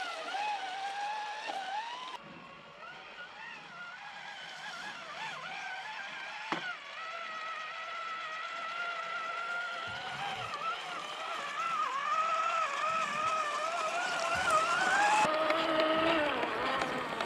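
Electric whine of an RC crawler's Hobbywing QuicRun Fusion brushless motor, its pitch rising and falling with the throttle as the truck crawls over rough ground. A single sharp knock comes about six and a half seconds in, with a few duller bumps later on.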